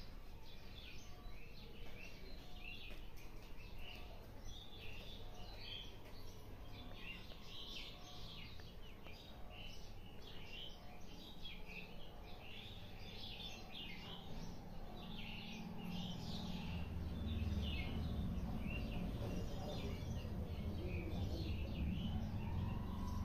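Small birds chirping over and over in the background, with a low steady hum underneath that grows louder about two-thirds of the way through.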